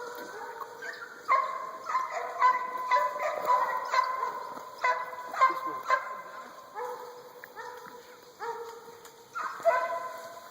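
Deer-hunting hounds barking and bawling, a quick run of drawn-out, ringing calls that overlap and keep coming, with a few louder ones about a second in, midway and near the end.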